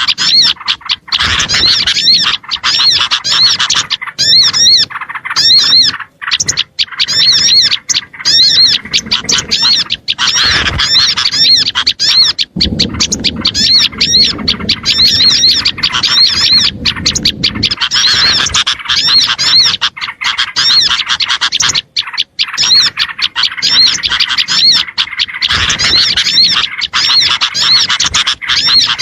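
A small-bird lure recording: many small songbirds chirping fast and agitated in a dense, noisy chorus, with quick repeated high chirps and brief gaps.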